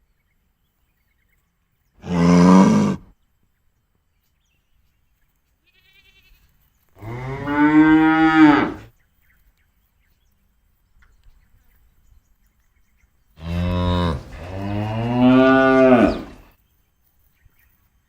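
Cattle mooing: a short moo about two seconds in, a longer one a few seconds later, and near the end a short call that runs straight into a long, drawn-out moo, with silence between the calls.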